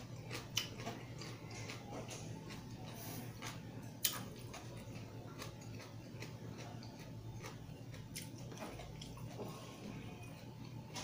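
Close-miked chewing and wet mouth sounds of a person eating, with scattered sharp clicks and one louder click about four seconds in. A steady low hum runs underneath.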